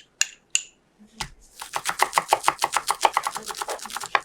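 A kitchen knife chopping fast on a cutting board: a quick, even run of short strikes, about ten a second, starting about a second and a half in after a soft thump. A few light clinks of metal on a dish come in the first moment.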